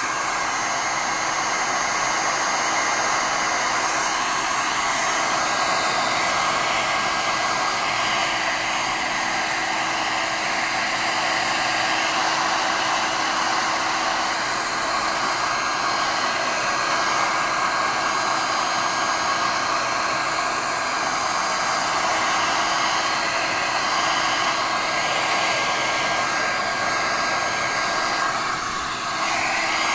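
A hair dryer running steadily: a continuous rush of blown air with a steady motor tone, dipping briefly near the end.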